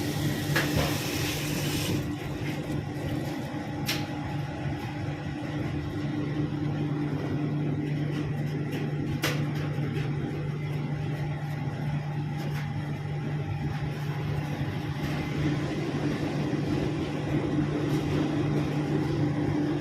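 Girbau 23 kg commercial washing machine running, a steady motor hum from its drum drive with a few faint clicks.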